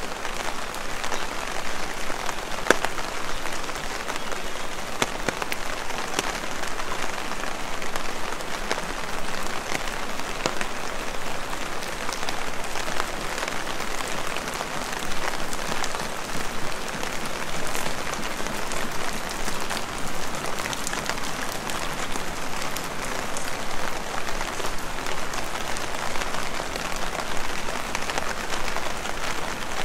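Heavy rain falling: a steady hiss dotted with many sharp drop ticks, one louder tick about three seconds in.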